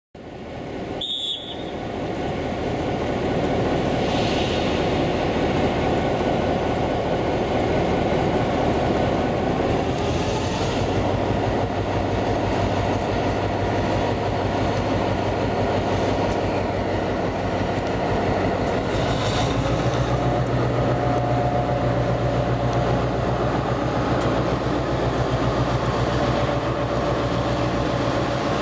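Diesel-hauled train heard from the coach: the GM diesel locomotive's engine and the wheels running on the rails, a steady mechanical rumble. A low engine hum grows stronger about ten seconds in and again near twenty seconds.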